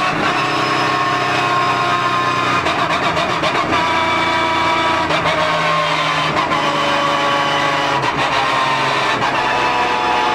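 Porsche GT3 Cup race car's flat-six engine running hard, its pitch climbing and dropping several times through gear changes and braking.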